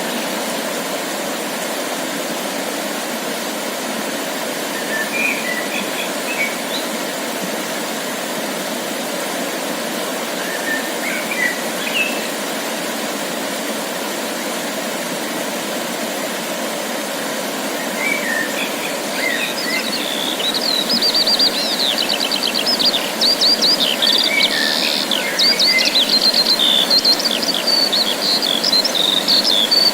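Wild songbirds singing over a steady background rush: a few short, scattered chirps at first, then from about twenty seconds in a fast, high-pitched trilling song that is louder and keeps going.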